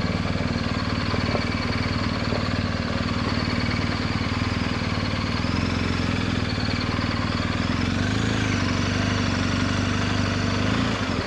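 Adventure motorcycle engine running steadily at low speed, rolling along slowly, with a slight rise in engine pitch about eight seconds in.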